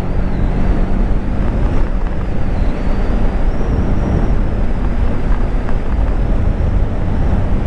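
Motorcycle running steadily at road speed, its engine note mixed with dense road and air rumble picked up by the rider's on-bike microphone.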